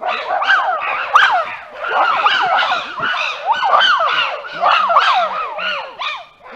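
A group of chimpanzees calling together, many loud overlapping calls that rise and fall in pitch.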